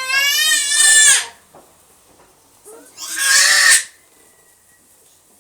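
Two loud, high-pitched, wavering squeals, each about a second long, the second coming about three seconds after the first.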